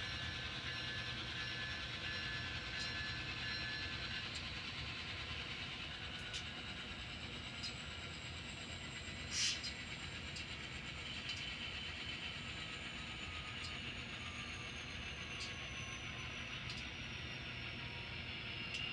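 N scale SD60I model diesel locomotive running along the layout track. A steady high whine slowly falls in pitch, with faint irregular ticks from the wheels passing rail joints. A brief hiss comes about halfway.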